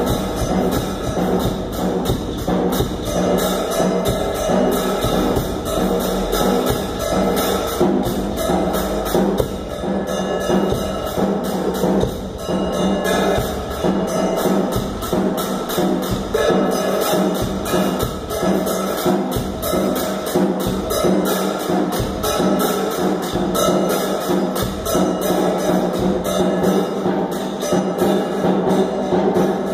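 Drum kit played in a fast, steady rhythm of sharp strokes, with a sustained pitched accompaniment underneath.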